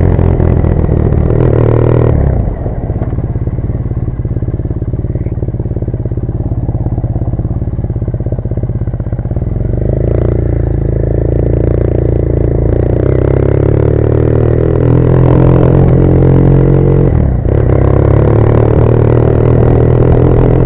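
Triumph Bonneville's parallel-twin engine running while the bike is ridden; the engine note drops about two seconds in, builds again later on, and dips briefly near the end.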